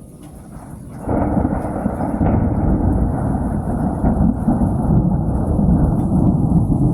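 Thunder: a loud, low rumble starts suddenly about a second in and rolls on steadily.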